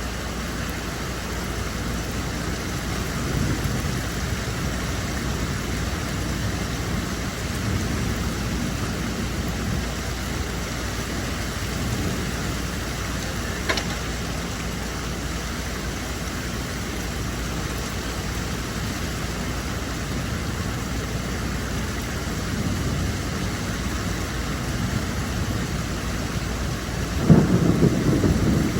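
Steady rainfall, with low rumbles that swell a few times, the strongest near the end, and one sharp click about halfway through.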